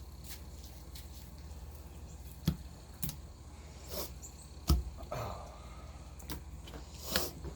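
Knife cutting the blood line out of a blacktip shark fillet, with a series of sharp knocks of the blade on the board, the two loudest about two and a half and nearly five seconds in, over a low steady hum.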